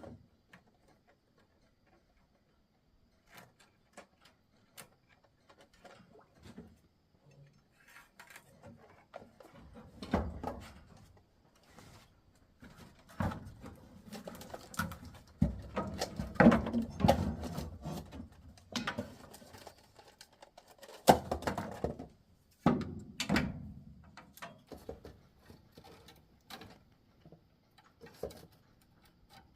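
Irregular knocks, taps and clatter of objects being handled, sparse at first and busiest in clusters through the middle, with short quiet gaps between.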